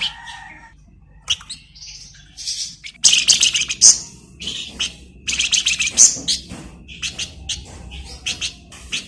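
A flamboyan songbird singing in bursts of high-pitched chirps and rapid trilled chatter, scattered at first and coming thick and fast from about three seconds in.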